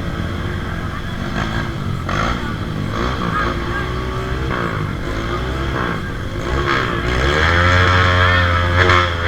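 Off-road trail motorcycle engine revving on a hill climb, the pitch rising and falling again and again, then getting louder and holding high from about seven seconds in.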